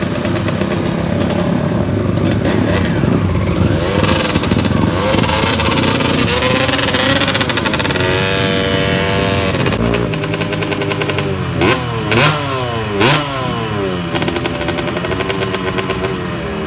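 Drag-racing motorcycle engines at full throttle, the pitch climbing and falling through the gears, then a few quick sharp revs with rapid rises and drops in pitch.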